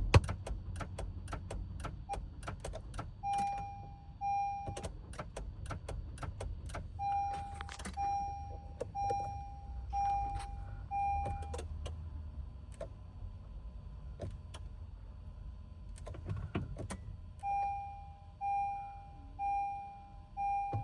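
2021 Honda Pilot's dashboard warning chime beeping in repeated runs, over rapid irregular clicking from the car's electrics. This is the no-start behaviour of a dead battery.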